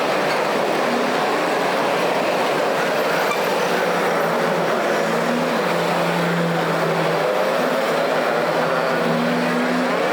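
Water rushing steadily through a cleared drainage outlet, an even unbroken noise.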